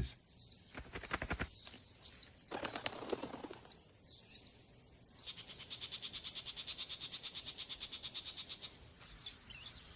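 Small songbird calling: a run of short, high, hooked chirps, then a fast, even, buzzy trill of about ten notes a second lasting nearly four seconds, then a few softer chirps near the end.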